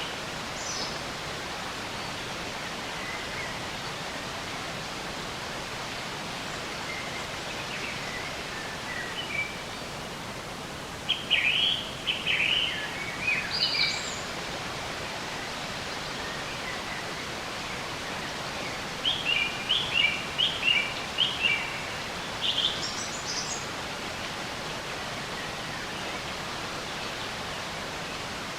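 Wild birds chirping in two short flurries, one about eleven seconds in and another about nineteen seconds in, with scattered faint calls between, over a steady, even background hiss.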